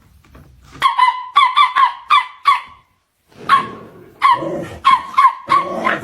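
Small dog barking in two quick runs of short, high-pitched yaps, the first starting about a second in and the second after a brief pause.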